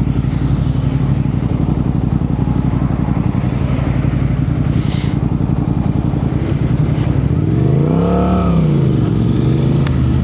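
Suzuki GSX-R sport bike's inline-four engine running at a steady idle, with one quick throttle blip about eight seconds in, the pitch rising and falling back.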